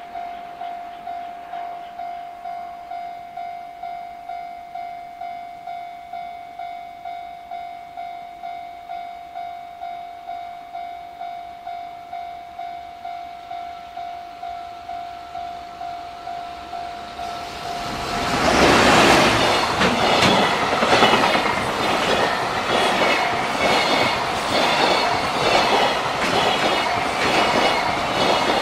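Japanese level-crossing warning bell ringing steadily, about two dings a second. About eighteen seconds in, a JR Freight EF210 electric locomotive and its container wagons pass close by, loud, with the wheels clattering rhythmically over the rail joints and drowning out the bell.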